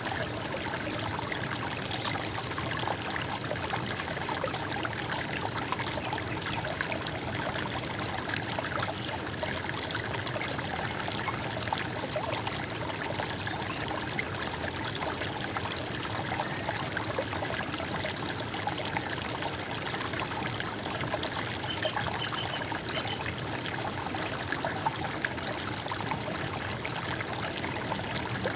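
Running water babbling and trickling steadily, like a small stream.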